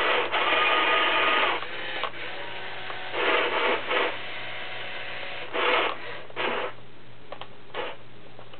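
Small electric gear motors of a wired-remote toy Caterpillar 245D excavator whirring with a slight whine as its functions are worked. A steady run for about a second and a half is followed by shorter bursts and a few small clicks, ending before the last second.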